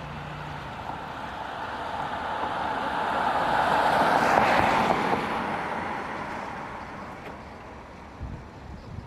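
A road vehicle passing by: its noise swells to a peak about halfway through and then fades away.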